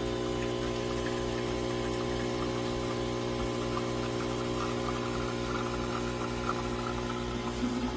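De'Longhi Dedica espresso machine's vibratory pump running: a steady buzzing hum, pumping water through the machine.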